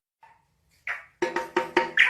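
A bird giving short, hard knocking calls: one about a second in, then a quick run of four, and another at the end, each sounding like a struck wood block.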